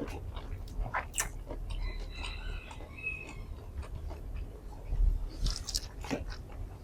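Close-miked chewing and biting of food in the mouth, with wet crackles and small clicks that are loudest about five seconds in.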